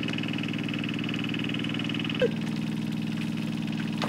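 A power tiller's small engine running steadily at an even speed, with one short sharp knock a little over two seconds in.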